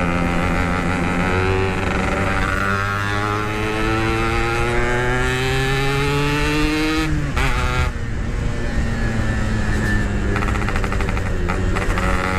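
Yamaha RX-King two-stroke motorcycle engine accelerating under way: the exhaust note climbs steadily for several seconds, drops sharply at a gear change about seven seconds in, then holds a lower, steady note.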